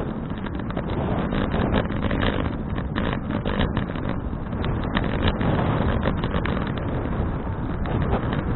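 Wind buffeting the microphone of a bicycle-mounted action camera while riding: a steady, dense rush of noise, heaviest in the low end.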